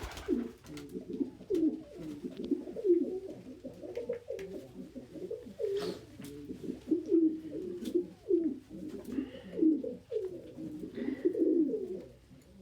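Domestic pigeons cooing over and over, a run of low coos that fall in pitch, from a male pressing another bird for dominance.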